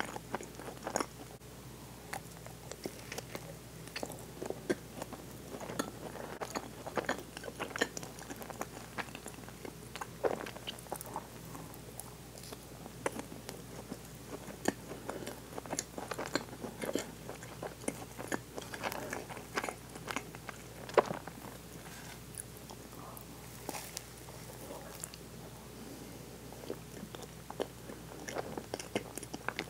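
Close-miked chewing of soft sweets, a chocolate-coated cruller and then a bite of whipped-cream dorayaki, made up of many small wet clicks and crunches.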